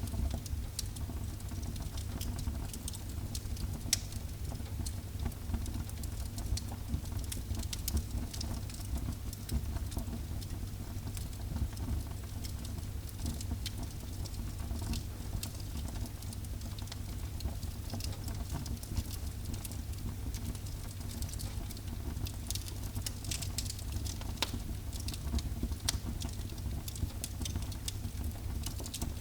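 Wood fire burning in a fireplace: a steady low rumble of flames with constant small crackles and now and then a sharper pop.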